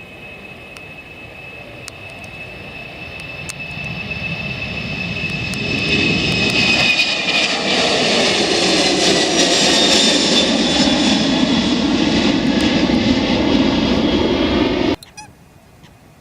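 Jet airliner taking off, its engines at takeoff power. The sound grows louder over the first six seconds, with a high whine that slowly falls in pitch, stays loud, and stops abruptly about fifteen seconds in.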